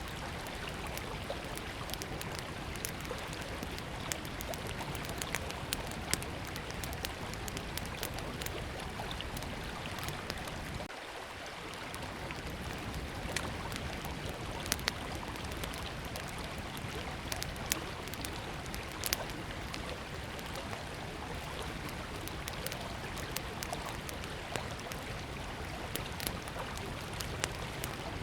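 River water flowing in a steady rush, with a small wood campfire crackling in scattered, irregular snaps over it.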